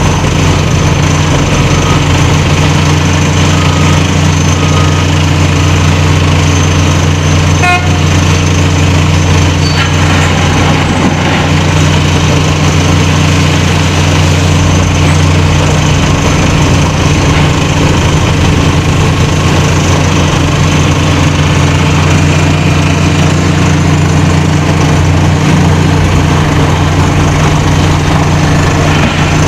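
Heavy mining machinery running with a steady low hum, with a brief short signal sound about eight seconds in.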